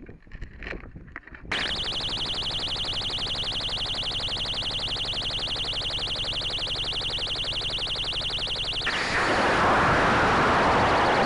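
Model rocket's electronic locator beacon buzzing with a rapid, steady pulsing high tone, starting about a second and a half in. About 9 s in, a louder rushing noise joins it.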